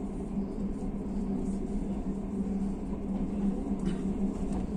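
Passenger train running, heard from inside the coach: a steady rumble with a strong low hum, and two faint clicks near the end.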